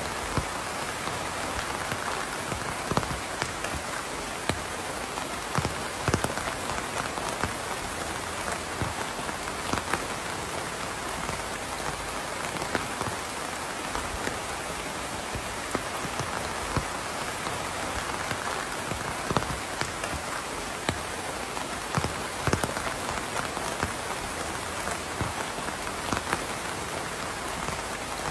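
Steady rain falling, with a dense even hiss and scattered louder individual drops hitting a surface close by.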